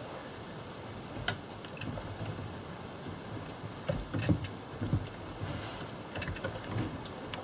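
Scattered light clicks and knocks of hand tools and parts being handled, the sharpest about a second in and a cluster around four to five seconds, with a few soft thumps.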